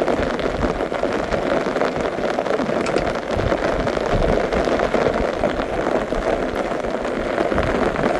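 Steady rain falling, a dense, even patter that does not let up.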